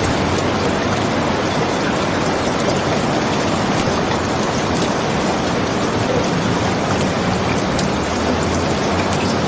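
Steady rain falling as an even hiss, with a few faint scattered ticks.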